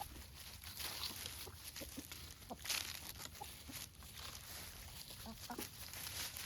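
Free-range chickens clucking softly in short, scattered calls, with a brief louder scratchy burst a little before the middle.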